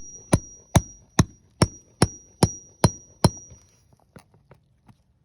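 Hammer tapping a metal nail-pulling bar to work its claw under a roofing nail head: about nine sharp metallic strikes, two or three a second, each with a high ring, then a few lighter taps near the end.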